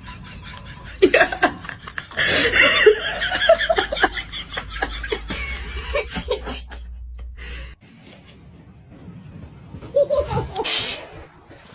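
People laughing in bursts, starting about a second in and breaking out again near the end.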